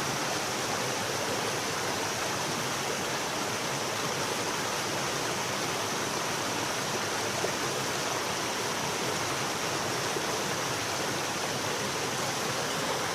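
Mountain valley stream: water rushing and splashing over rocks in a steady, even flow.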